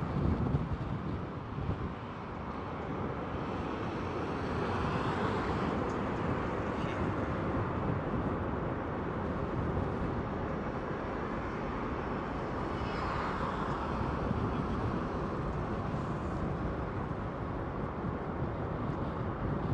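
Jet airliner engine noise over steady wind buffeting the microphone, with an engine whine sweeping up and down a few seconds in and again about thirteen seconds in.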